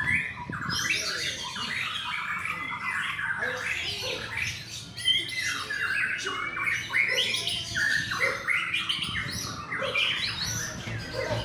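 White-rumped shama (murai batu) song: a dense, unbroken run of rapid, varied whistled and chattering phrases.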